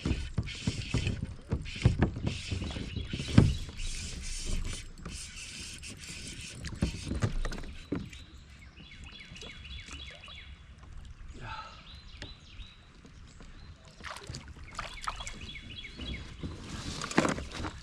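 Kayak on the water: irregular knocks against the hull and water splashing from paddling and moving about in the boat.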